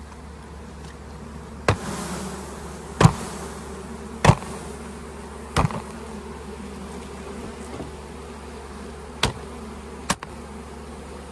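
A mass of honeybees buzzing steadily while a plastic bee package is knocked against the hive to shake the bees out: six sharp knocks, four evenly spaced in the first half and two more near the end.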